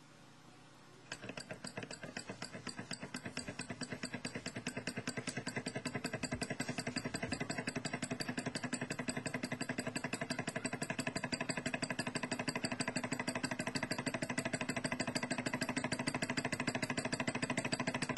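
A model Manson-type atmospheric hot-air engine starting up about a second in and then running with a rapid, regular mechanical clicking. The clicking picks up in speed and loudness over the first few seconds, then runs steadily.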